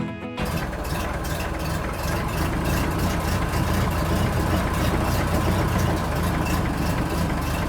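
Engine of a mini tractor running steadily, starting abruptly about half a second in.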